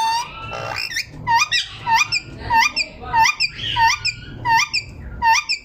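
Green ringneck parakeets calling: a quick series of short, high squeaky calls, each dipping and rising in pitch, about three a second.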